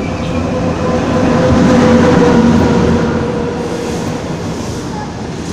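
Locomotive-hauled intercity through train passing close alongside the platform: a dense rumble with a steady hum that swells to its loudest about two seconds in and then eases as the coaches roll by.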